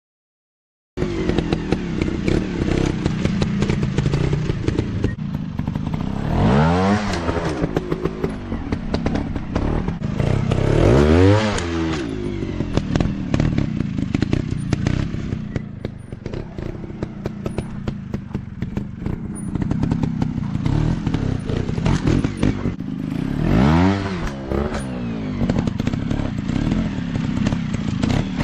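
Dirt bike engines running, starting about a second in, with clattering throughout; the engine pitch climbs and drops three times as a bike is revved hard and backed off.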